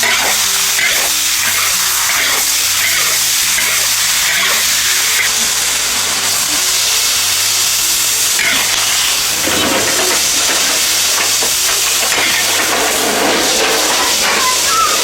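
Wild wood ear mushrooms and cured pork sizzling in a hot wok as they are stir-fried, a steady loud hiss throughout.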